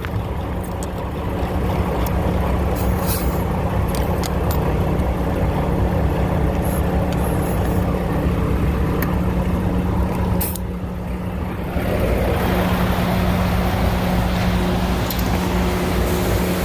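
Grain truck engine running steadily, with a few sharp clicks and a short dip in level about ten seconds in.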